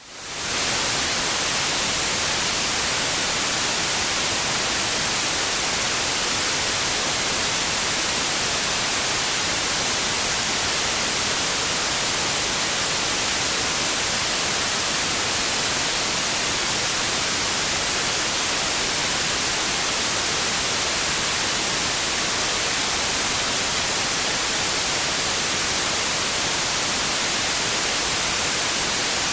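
Steady electronic white noise, an even hiss strongest in the high end, that swells back in from a brief dropout right at the start.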